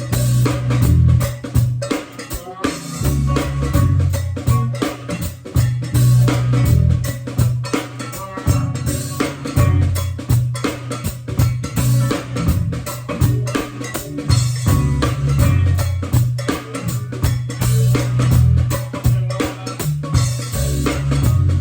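Live band playing: a drum kit and percussion keep a steady, driving beat over a repeating bass line.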